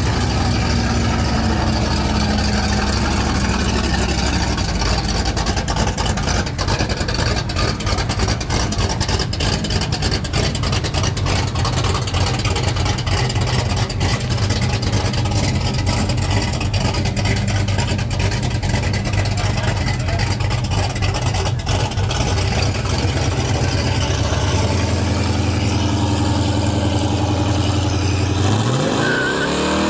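Classic muscle car engine running with a loud, steady low rumble, then revving up sharply near the end.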